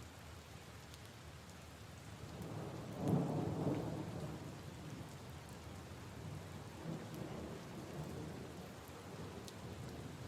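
Steady rain pattering on puddles and leaves, with a rumble of thunder that swells about three seconds in and slowly fades, and a weaker rumble a few seconds later.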